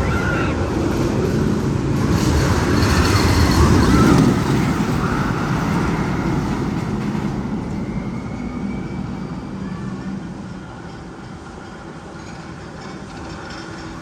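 Magnum XL 200 roller coaster train rumbling along its steel track, building to its loudest about four seconds in and then fading away.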